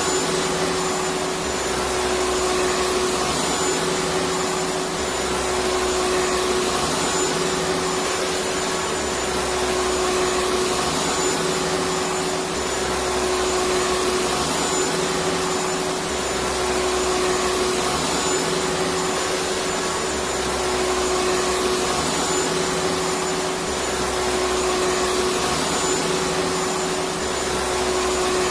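Electric vacuum cleaner running steadily: an even rush of air over a constant motor hum, swelling and easing slightly every few seconds.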